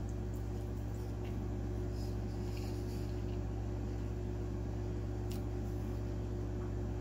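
A person chewing a french fry with the mouth closed, a few faint soft mouth clicks over a steady low electrical hum.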